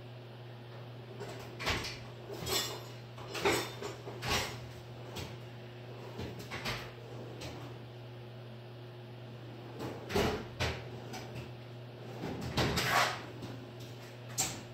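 Irregular knocks, clanks and short scrapes of tools and metal parts being handled at a workbench, in two clusters: from about two to five seconds in, and from about ten to thirteen seconds in.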